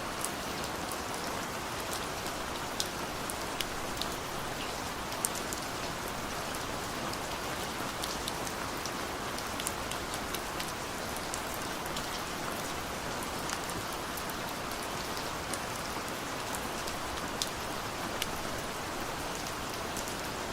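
Steady rain falling, an even hiss with many separate drops ticking sharply on nearby surfaces, a few of them louder.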